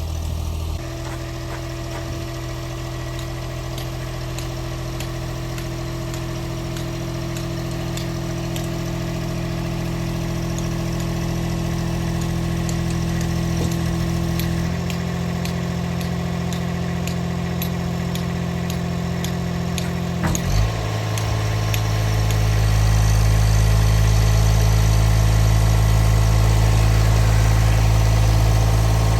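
A machine's engine running steadily, its note shifting a few times. About two-thirds of the way in it dips briefly, then runs louder and lower, with light clicks and knocks over it.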